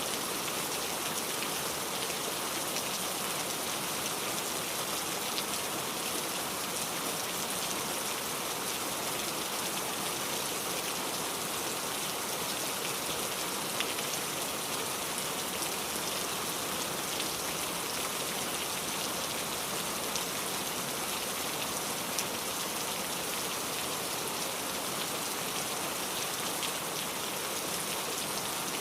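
Steady rain falling, with raindrops pattering on a surface; now and then a single drop hits a little louder.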